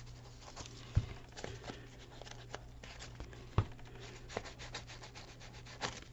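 Ink pad rubbed along the edges of a paper page, a soft scratchy rubbing with a few light taps about a second in, at about three and a half seconds and near the end.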